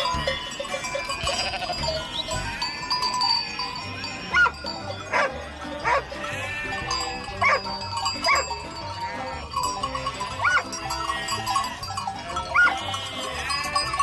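Bleating farm animals, several drawn-out calls one after another, over background music with a steady beat. Short sharp clanks stand out as the loudest moments.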